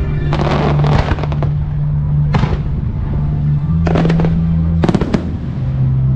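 Fireworks shells bursting in clusters of sharp bangs and crackle, set off in time with loud music playing over loudspeakers, whose steady bass notes run underneath.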